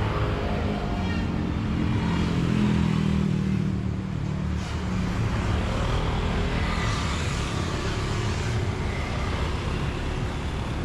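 Street traffic: a motor vehicle's engine humming past about two to four seconds in, over steady road noise.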